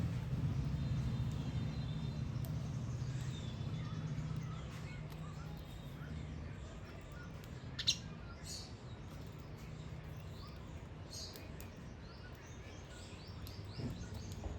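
Small songbirds chirping and twittering in short, scattered calls, with sharper calls about eight and eleven seconds in. A low rumble underneath fades away over the first few seconds.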